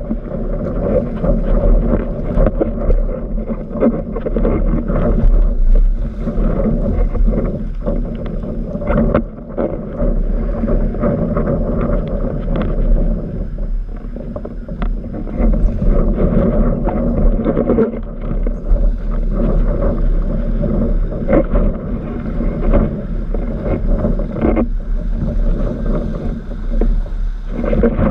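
Strong wind buffeting the microphone, with the rush of water and frequent sharp slaps and splashes of a windsurf board moving through choppy water.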